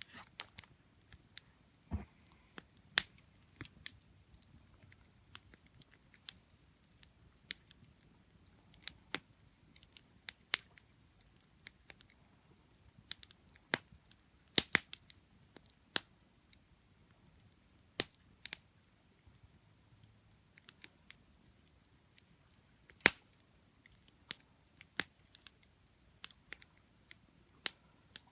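Wood campfire crackling: irregular sharp pops and snaps, a few noticeably louder than the rest.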